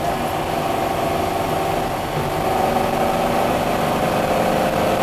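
Porsche 356 SC's air-cooled flat-four engine running at fairly steady revs as the car drives along, heard from inside the cabin.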